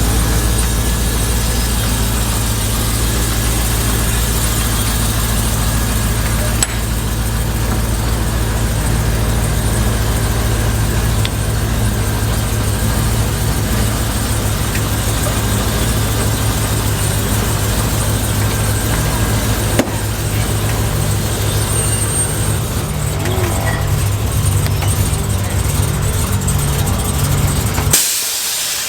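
A vehicle engine running steadily at idle with a low, even hum, cut off abruptly near the end.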